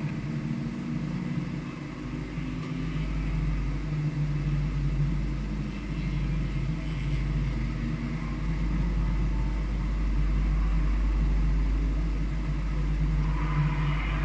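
Vehicle engine running steadily on a race circuit, with a deep low rumble that sets in about three seconds in and holds.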